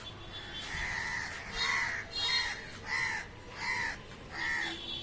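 A crow cawing over and over, about six harsh caws evenly spaced less than a second apart.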